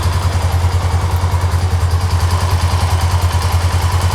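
2007 Honda Rancher TRX400FGA ATV's single-cylinder four-stroke engine idling steadily, with an even, rapid putter.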